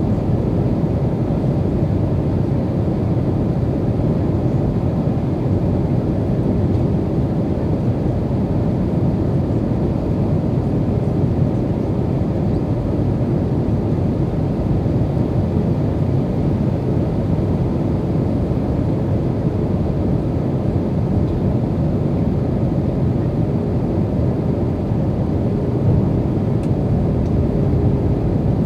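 Steady cabin noise inside an Airbus A320 in flight: the rush of air past the fuselage mixed with the low hum of its IAE V2500 engines, with a faint steady tone running through it.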